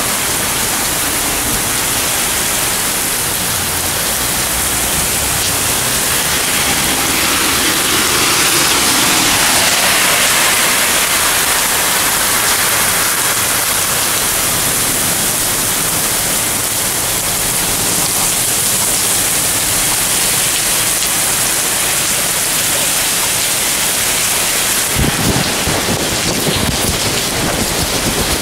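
Heavy rain pouring down steadily in a thunderstorm, with a few low knocks or rumbles near the end.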